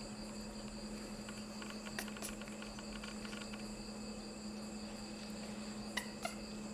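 Steady high-pitched insect chorus, crickets trilling, over a steady low hum, with a few small clicks about two seconds in and again near the end.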